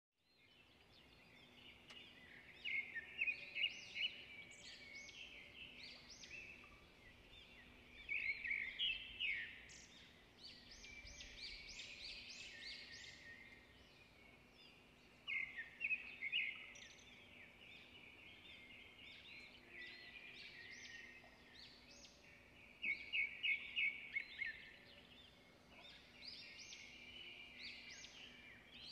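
Small birds chirping and twittering, with four louder quick runs of repeated notes a few seconds apart. A faint steady hum lies underneath.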